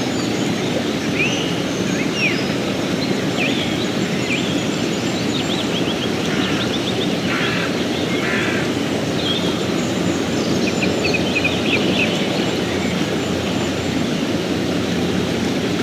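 A river flowing with a steady rushing sound, while small birds chirp and trill over it at intervals.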